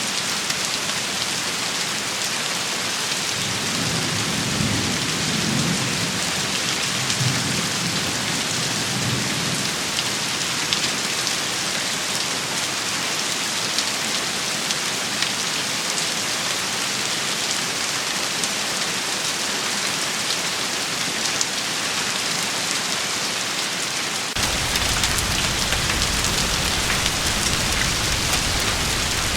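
Steady heavy rain shower with fine patter of drops hitting a surface. Low rumbling swells up twice between about 4 and 10 seconds in, and a steady low rumble cuts in sharply near the end.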